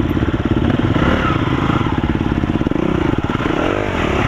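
Dirt bike engine running under throttle, its firing pulses steady, with the revs rising briefly near the end.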